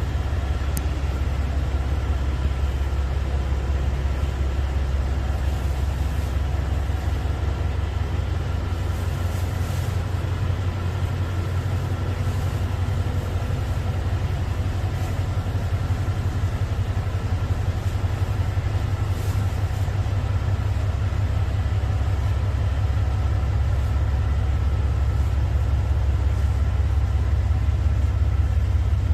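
Train running with a steady low rumble that grows slightly louder toward the end, with faint steady whining tones above it.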